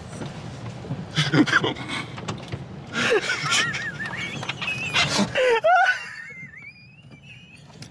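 A vehicle's engine running, heard from inside the cabin as a steady low rumble. It cuts off about five and a half seconds in as the engine is switched off after parking. Short bursts of voices and laughter sound over it.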